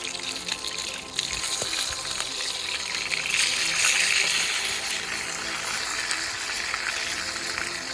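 A steady hiss, with fine crackle, that swells about three seconds in, over background music.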